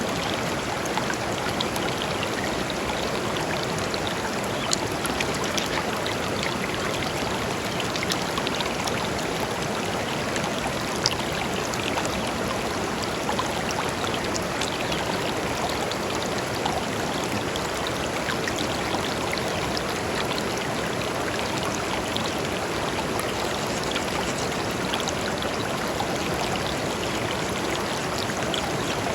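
Shallow river flowing steadily over and between stones: a continuous rushing with small splashes and trickles scattered through it.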